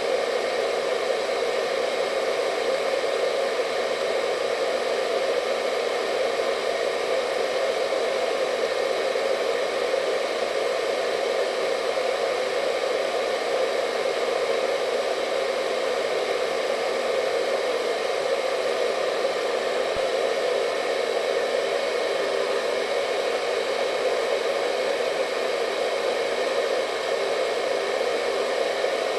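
Hair dryer running continuously with a steady whooshing hum, its airflow noise strongest in the low-middle range with faint steady whine tones above, unchanging throughout.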